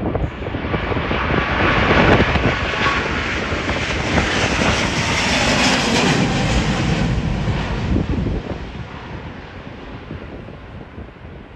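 Jet airliner's engines at takeoff power passing by, swelling over the first couple of seconds, dropping in pitch, then fading after about eight seconds. Gusty wind buffets the microphone throughout.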